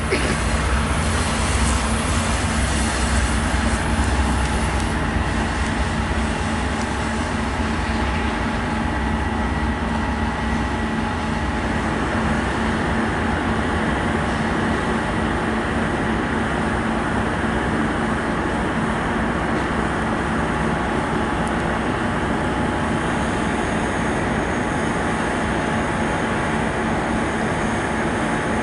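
A freight train's railcars rolling past on the rails. The heavy low rumble eases about ten seconds in, leaving a steady rolling noise.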